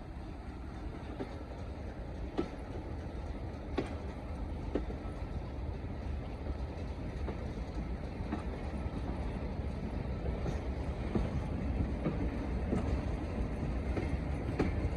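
Diesel-hauled train running along the line with a steady low rumble that slowly grows louder, and occasional sharp clicks of wheels over rail joints.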